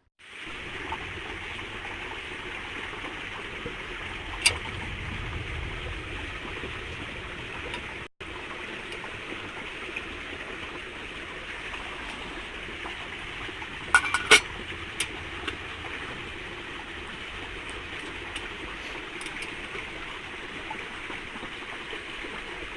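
Creek water running steadily, with a few sharp clicks: one a few seconds in and a small cluster about midway.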